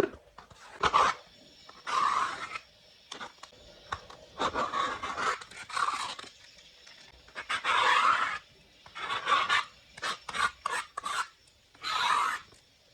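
A small package being handled and opened: irregular bursts of rubbing and scraping on packaging, with scattered clicks and taps between them.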